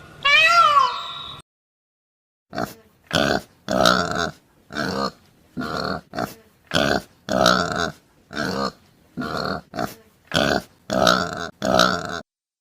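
A cat's meow in the first second or so, then, after a short pause, a pig grunting: a steady run of short grunts, roughly one or two a second.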